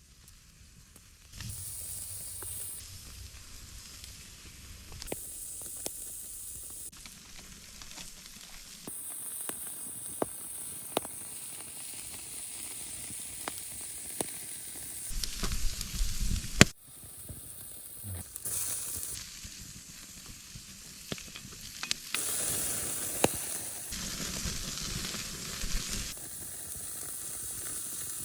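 Food sizzling and frying in a hot pan over an open fire, with scattered sharp pops of spitting fat. The sizzle changes abruptly several times between shots, and there is a brief louder rumble near the middle.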